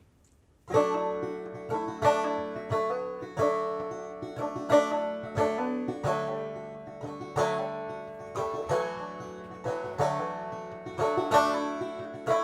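A plucked string instrument comes in about a second in and picks a steady run of notes, each with a sharp attack: the instrumental intro of a song before the vocals enter.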